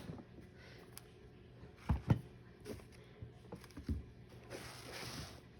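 Soft knocks and taps from a cat food package being handled, a couple of louder ones about two seconds in, then a brief rustle near the end.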